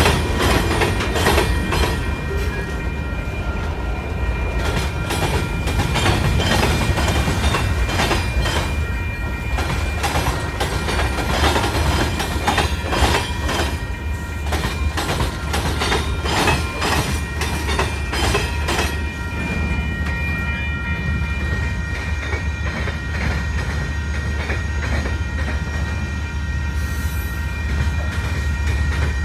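Freight train cars rolling past close by: wheels clicking over rail joints in quick irregular runs over a steady low rumble, with a few thin steady high tones. The clicking thins out after about twenty seconds while the rumble goes on.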